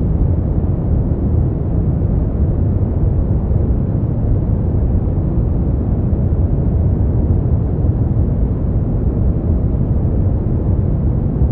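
Steady, unchanging noise track sold as white noise for sleep, deep and dull in tone, like a low rumbling rush with hardly any hiss on top.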